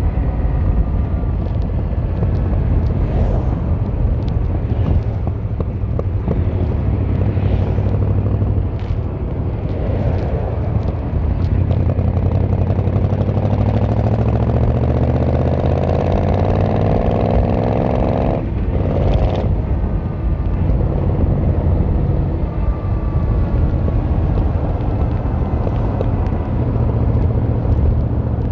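Yamaha XVZ1300 Royal Star V4 engine and exhaust under way on the road. Partway through, the engine note climbs steadily for several seconds as the bike accelerates. It then drops out briefly and settles back to a steady cruising note.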